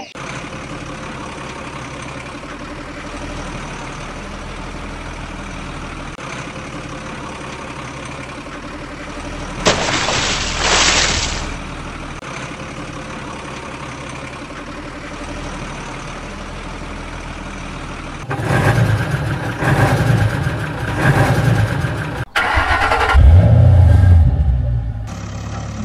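Vehicle engine running at a steady idle, with a short hissing burst about ten seconds in. In the last third come louder bursts of engine noise, as if it is revved or started.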